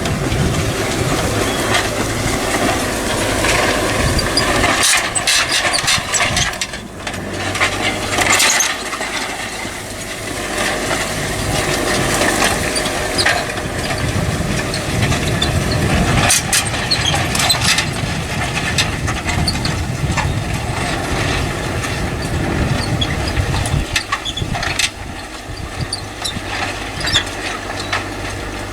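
Tractor engine running steadily while pulling a plough, with irregular sharp clicks and crunches over it.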